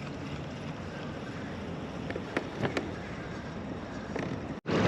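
Steady wind and water noise on a kayak, with a few faint clicks in the middle. It cuts out abruptly for an instant near the end.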